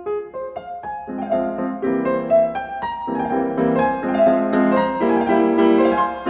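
Background piano music: a run of quick notes over sustained chords.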